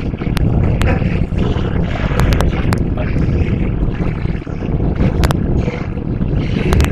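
Cabin noise of the Hybrid Electric Train under way: a loud, steady low rumble with sharp clicks and rattles here and there.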